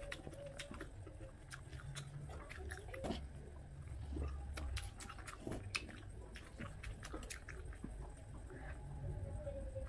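Close-miked chewing and wet mouth clicks of someone eating rice and omelette with sambal by hand, with many short sharp smacks scattered throughout.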